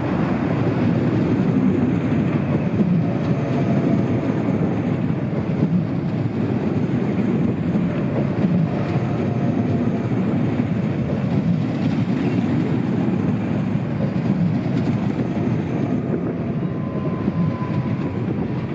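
NS VIRM double-deck electric train running past, a steady rumble of wheels on the rails with a faint whine. A brief thin squeal comes near the end as the last car goes by.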